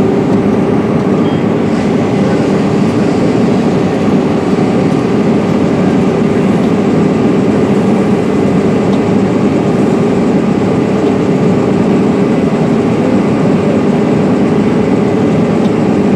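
Case IH 8250 Axial-Flow combine running steadily under load while harvesting corn and unloading grain through its swung-out auger: an even mechanical drone with a held hum.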